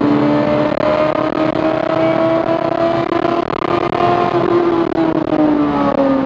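Yamaha Fazer inline-four motorcycle engine powering a SEAT Arosa, heard from inside the cabin while driving hard. Its note climbs slowly for about four seconds, then falls away near the end.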